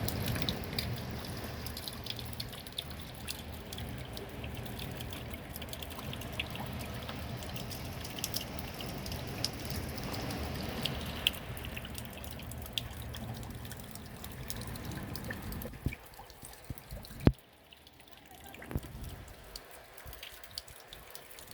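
Seawater lapping and splashing, with many small drips and splashes, then going quieter about sixteen seconds in, with one sharp click shortly after.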